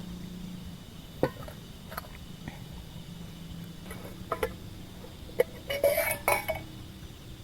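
Camp cookware being handled: scattered light clinks and knocks, with a quick cluster of them a little before the end, over a faint steady low hum.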